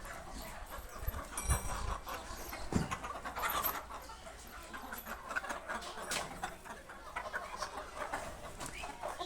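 A flock of chickens clucking and moving about, with scattered scratching and pecking sounds. There are a few low thumps between one and three seconds in, and a brief high chirp about one and a half seconds in.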